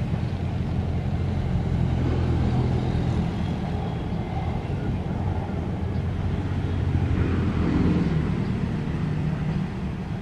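Diesel-hauled passenger train on the move: a steady low rumble of engine and rolling stock on the rails.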